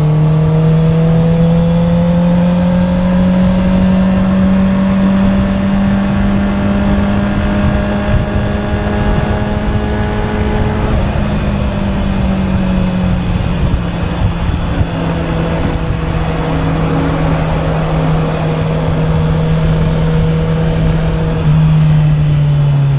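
Honda CB650R's inline-four engine, breathing through an Akrapovic exhaust, running under way. Its note climbs slowly for about ten seconds, eases back to a steady pitch, then drops near the end, over a constant rush of wind and road noise.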